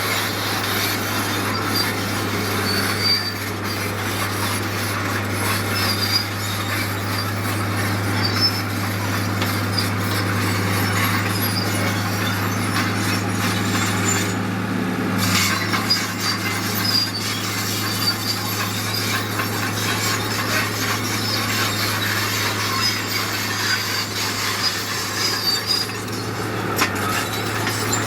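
Heavy diesel construction machinery running steadily: a low, even engine drone under a constant rough, rattling noise.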